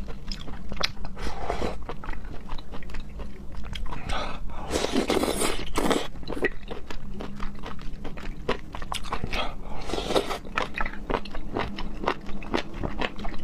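A person eating: chewing with many short, wet mouth clicks, and two longer noisy stretches about five and ten seconds in.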